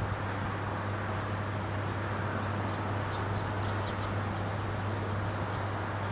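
Rice combine harvester running steadily in the field, a constant low engine hum. A few short high chirps come over it in the middle.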